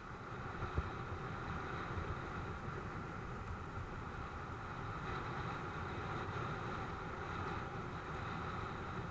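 Steady rush of wind and rolling noise from a mountain bike ridden over a dirt track, with the bike rattling and a single knock about a second in.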